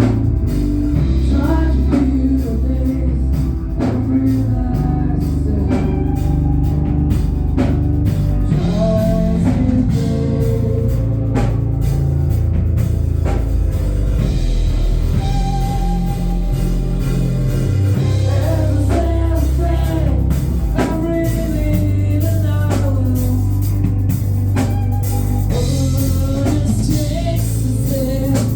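A rock band playing, with a singer over drums, bass and guitar.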